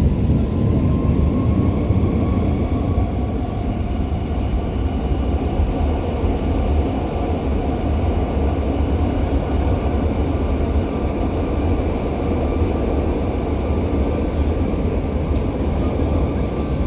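First-generation Brussels metro train (M1–M5 series) running, its traction motor whine rising slightly in pitch over the first couple of seconds and then holding steady, over a constant low rumble.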